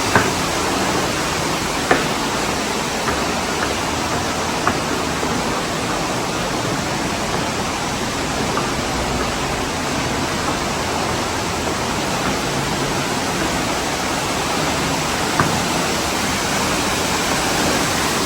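Steady rush of a gorge waterfall, Cavern Cascade, pouring close by, with a few faint clicks.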